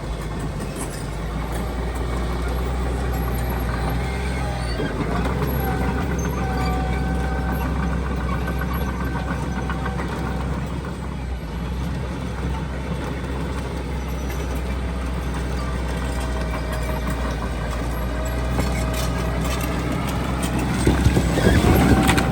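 Heavy diesel earthmoving machinery running steadily, with a higher whine that wavers in pitch over the low engine drone. Near the end it grows louder and the whine rises in pitch.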